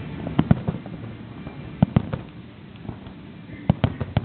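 Aerial fireworks bursting, sharp bangs coming in three quick clusters of two or three.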